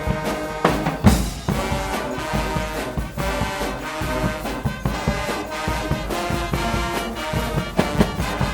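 Guggenmusik carnival band playing: loud brass chords over drum beats, with a heavy drum hit about a second in.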